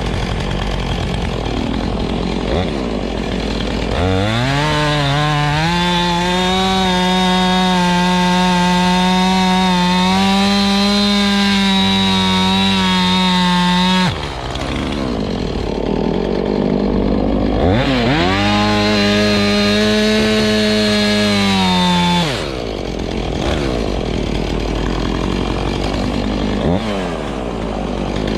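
Husqvarna chainsaw revved up to full throttle twice, cutting into hardwood logs: a steady high engine note held for about ten seconds, then again for about five seconds. Between the two cuts and at the end it falls back to a lower idle.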